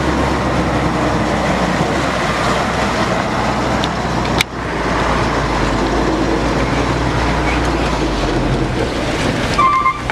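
Truck engine running steadily, with a sharp click about four and a half seconds in and a short high beep near the end.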